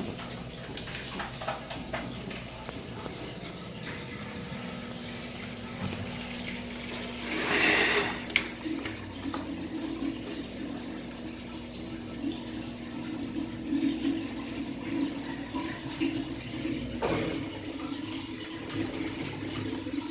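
KMC washing machine running, with water rushing and sloshing in its tub over a steady motor hum; the water surges louder about seven to eight seconds in.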